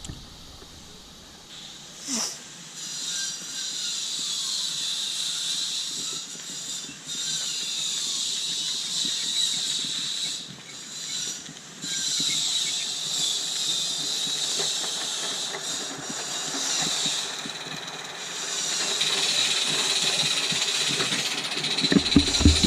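Roundhouse Silver Lady gas-fired live steam model locomotive running with coaches, its exhaust steam hissing and chuffing. The hiss fades briefly several times and builds up again.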